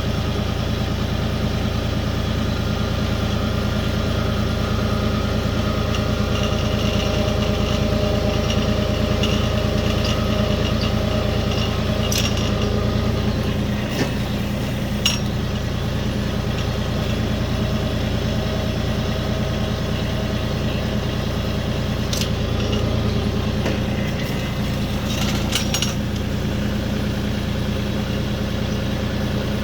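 RK37 compact diesel tractor engine running steadily while it drives a three-point post hole digger auger, with a few sharp clicks and knocks scattered through.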